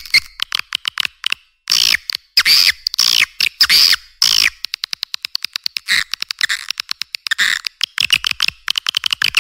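Swiftlet calls from a recorded lure track, of the kind played to draw swiftlets into a nesting house: rapid trains of clicking chirps, with several longer buzzy chirps falling in pitch about two to four and a half seconds in. The sound is thin, with no low end.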